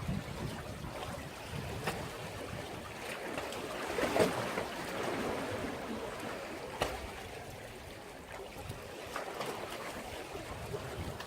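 Sea waves washing against a breakwater. One wave surges louder about four seconds in, and a few short sharp slaps of water come in between.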